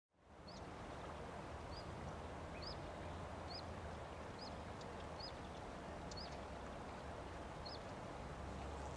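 Faint outdoor ambience: a steady background hiss with a low hum, fading in at the start. A bird repeats a short, high chirp about once a second.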